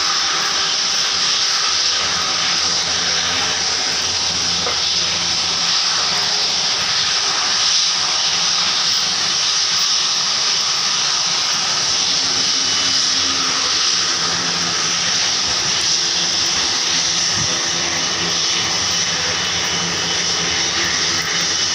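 Airbus A330 jet engines running at takeoff power: a loud, steady rushing noise with a strong hiss.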